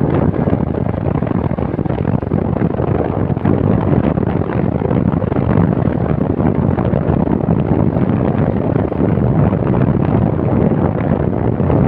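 Loud, steady rushing noise with no clear tone, typical of wind buffeting the microphone outdoors.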